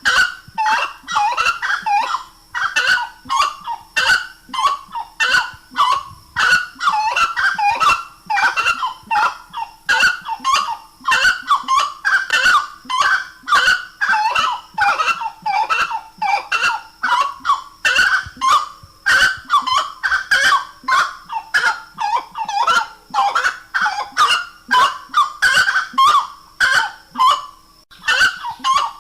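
Grey-cowled wood rail (saracura-três-potes) giving its loud song, calls repeated rapidly at about two a second without a break, with sharp clicks among them.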